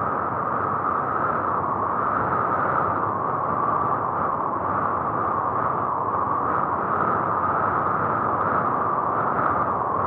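A car driving at an even pace, its engine and road noise steady throughout.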